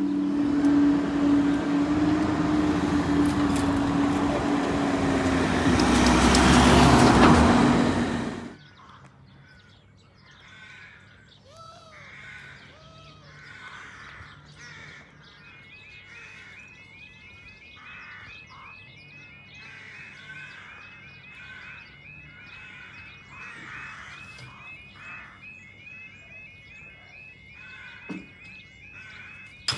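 Train passing close by a level crossing: a steady low drone under a rushing noise that grows louder, then cuts off suddenly about eight seconds in. After that come quiet outdoor ambience and birds chirping, with a run of quick repeated notes through the second half.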